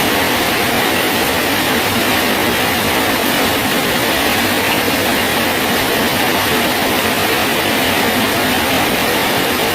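Steady rain falling on a bridge, an even unbroken hiss with no separate drops or breaks standing out.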